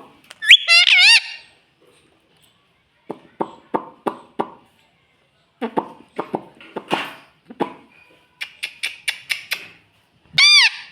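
Ringneck parrot giving a loud, wavering screech about half a second in and a second, arched screech near the end, with runs of short clicky chattering sounds in between.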